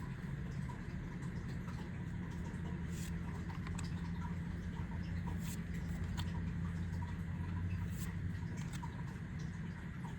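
Trading cards and foil booster packs being handled, giving light scattered clicks, slides and rustles over a steady low hum.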